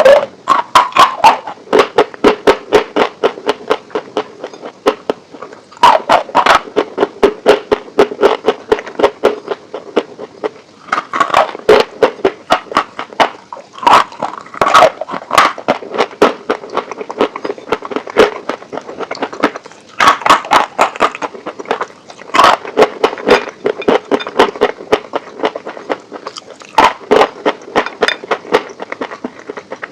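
Close-miked crunchy chewing of crispy chicken wings: rapid crackling crunches in several bouts a few seconds long, with short pauses between them.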